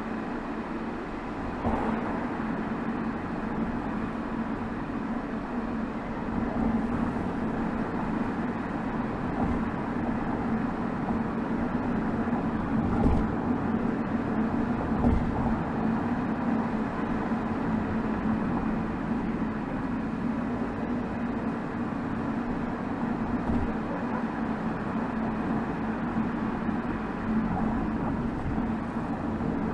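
BMW 320xd's 2.0-litre four-cylinder turbodiesel (B47D20) heard at the tailpipe while driving, a steady low drone mixed with road and tyre noise. A couple of short low thumps come about halfway through.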